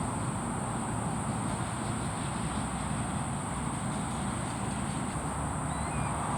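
Steady insect chorus, a continuous high-pitched trill, over a low background rumble, with a couple of faint short bird chirps near the end.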